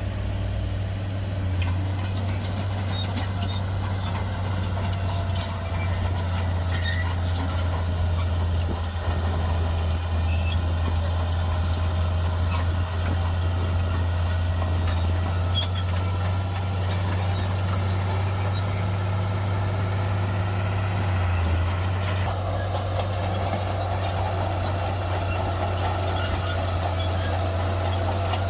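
Heavy earthmoving machine's diesel engine running steadily with a constant low drone. A fainter, higher whine above it wavers slightly in pitch.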